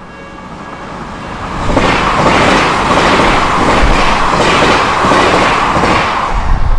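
An Odakyu Odawara Line electric train passing over the level crossing. It grows louder over the first two seconds, then runs by loudly with a rhythmic clatter about twice a second from its wheels. The crossing's warning bell can be heard faintly at the start before the train drowns it out.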